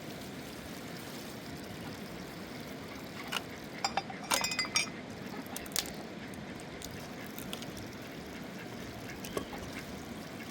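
A river running steadily, with a short cluster of sharp, briefly ringing clinks a few seconds in.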